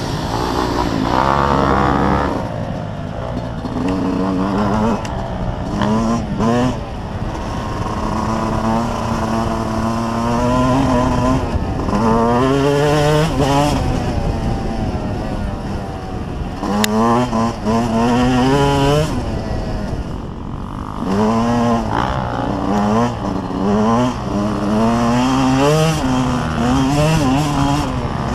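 Dirt bike engine revving, its note climbing in pitch and dropping back again and again as the throttle is worked and gears are changed.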